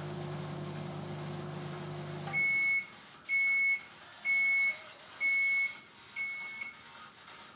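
MK-2280MG 700-watt microwave oven running with a steady hum until its heating cycle ends about two seconds in, then five high beeps about a second apart, the last one fainter, signalling that the timer has finished.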